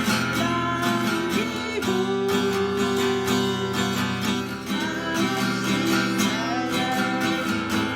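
Acoustic guitar strummed steadily in a 3/4 waltz rhythm, moving through simple open chords (C, G7, F, A minor, D minor).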